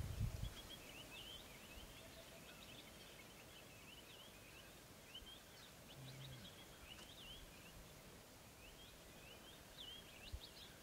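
Faint chirping of small birds, short high calls with quick up-and-down pitch repeating throughout. A low rumble dies away in the first half second, and there is a soft knock near the end.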